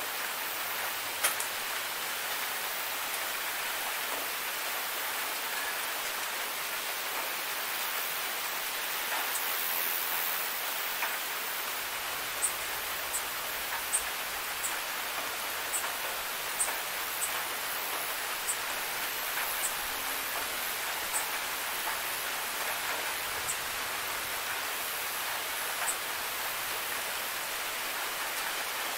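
Steady rain, an even hiss, with scattered sharp ticks of single drops landing close by.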